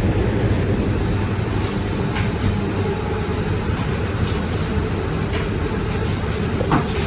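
Steady low rumble of commercial kitchen machinery, with a few faint clicks and one sharper knock near the end.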